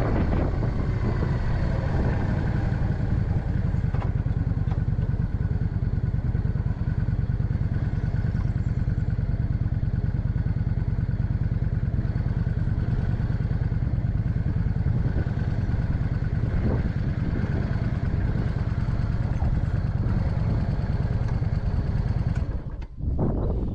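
Motorcycle engine running steadily while riding, with a short dip in level near the end.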